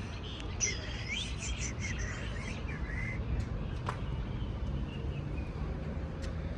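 A bird chirping in a quick run of short twittering calls for a couple of seconds, over a steady low background rumble.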